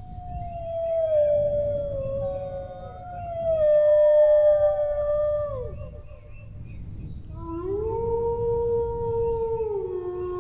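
Several dogs howling together in long, drawn-out howls at different pitches that overlap. Each howl is held and then slides down at its end, with a lower howl starting about seven seconds in. A steady low rumble runs underneath.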